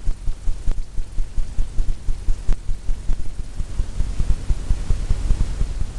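A paintbrush stroking along a stretched canvas: a low, irregular thumping rumble as the canvas flexes under the brush, with a few faint clicks.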